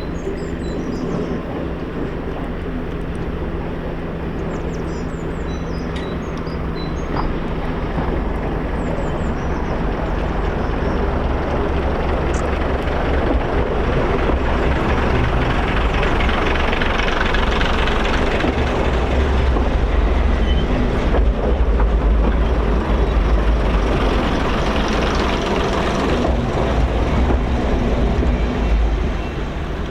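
A train going by on the line. Its running noise builds steadily to a peak and drops off just before the end.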